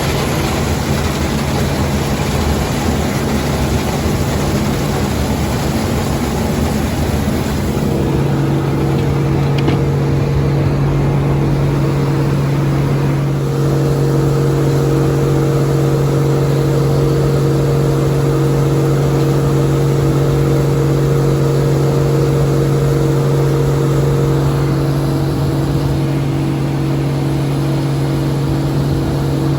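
Case IH 1680 Axial-Flow combine running under load while cutting barley: a steady mechanical drone with a low hum that settles into a stronger, even tone about eight seconds in.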